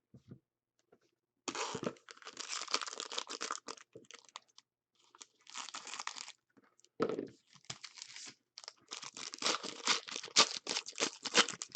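Hockey card pack wrappers being torn open and crinkled, in several irregular bouts of crackling and tearing with short sharp crackles.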